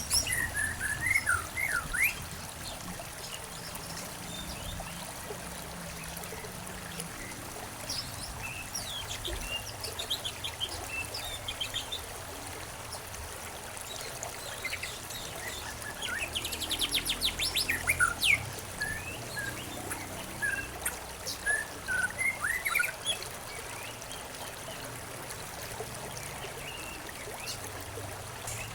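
Songbirds chirping in three bouts of short, quick calls, one with a rapid trill, over a steady trickle of running water.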